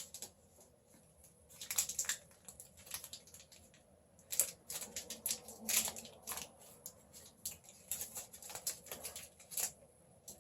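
Candy bar wrapper crinkling and crackling as it is handled and opened, a long irregular run of sharp crackles.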